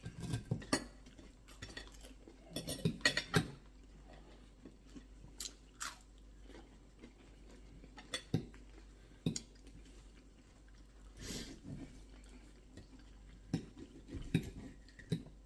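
Cutlery clinking and scraping on dinner plates, with chewing, heard as short scattered taps and clicks; a quick cluster of clicks comes about three seconds in.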